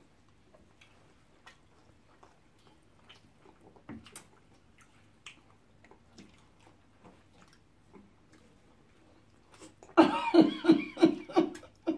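Faint close-miked eating sounds from people eating soft food by hand: scattered chewing, lip smacks and small mouth clicks. About ten seconds in, a loud voice breaks in.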